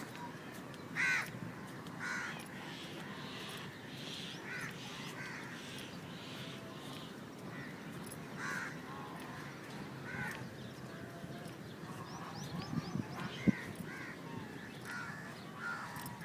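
Crows cawing repeatedly, one call every second or two with the loudest about a second in, over an outdoor background with fainter, higher calls of other birds. A single sharp click or knock about thirteen seconds in.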